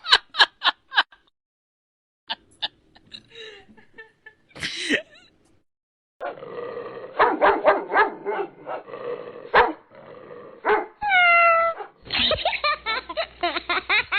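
Dogs barking and yipping in a series of short clips cut together, with silent gaps between some of them. About eleven seconds in comes a single call that falls in pitch.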